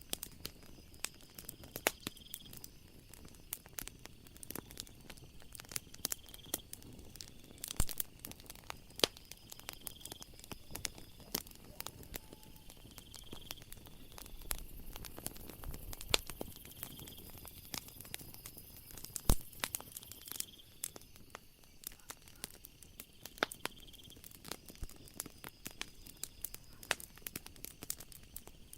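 Wood fire crackling with many sharp pops. Behind it, night ambience: a short high insect chirp repeats about every two seconds, and a high steady insect buzz joins for several seconds in the middle.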